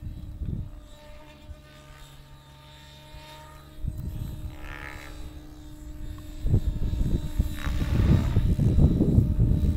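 Align T-Rex 700E electric radio-controlled helicopter in flight, its motor and rotor giving a steady hum. From about two-thirds of the way in, a louder low rumble of wind on the microphone grows over it.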